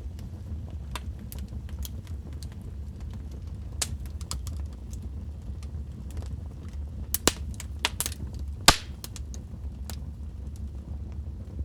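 Wood fire crackling in a fireplace: a steady low rumble of flames under scattered snaps and pops, with a burst of sharper pops a little after the middle, the loudest about three-quarters through.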